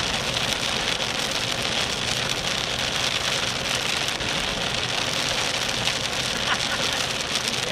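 Steady hiss of rain and tyres on a wet road, heard from inside a car driving fast, at about 80 mph.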